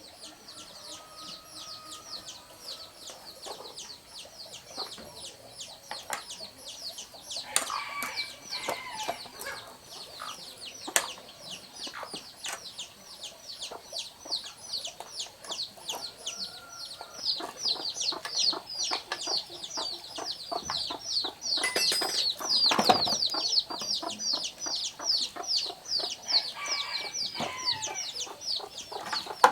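Chickens: a continuous run of rapid, high, falling chirps, several a second, with a few louder, lower calls among them.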